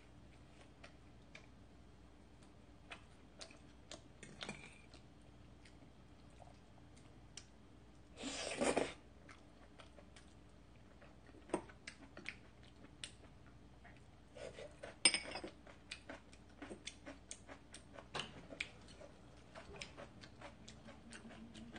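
Close-up eating sounds: soft chewing and small mouth clicks while eating creamy fettuccine and bread, with a few light taps of a fork against the bowl. A short, louder burst of noise comes about eight seconds in.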